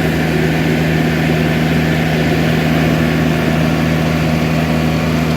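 Skid steer loader's engine running steadily at a constant speed, an even low drone with no change in pitch or level.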